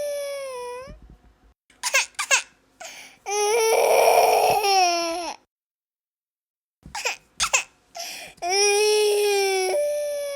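A baby crying: long, high wails with short sobbing catches between them. The crying stops dead for about a second and a half in the middle, and near the end the same wail comes round again, as in a repeated recording.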